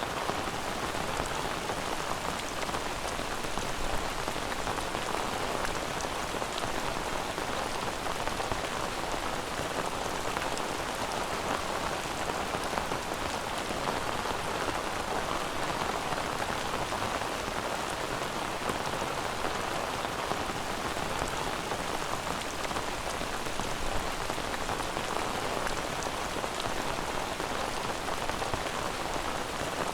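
Steady rain falling on a surface, an even hiss that holds level throughout.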